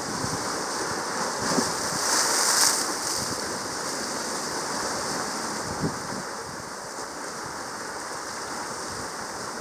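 Sea water sound: a steady rushing hiss, with a louder surge of hissing water from about one and a half to three seconds in.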